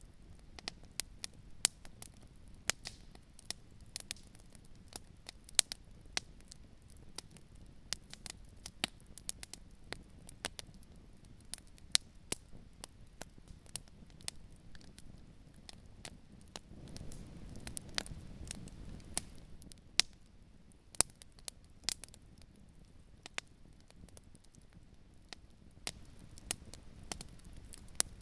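Campfire crackling: irregular sharp pops and snaps from burning wood, several a second, some much louder than the rest. A soft low rush swells briefly a little past the middle.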